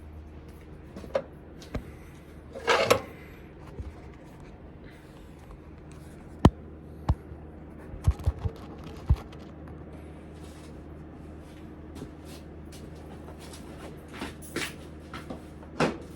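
Scattered sharp knocks and a few short scraping scuffs over a steady low hum. There is a cluster of knocks around the middle and scuffs near the start and near the end.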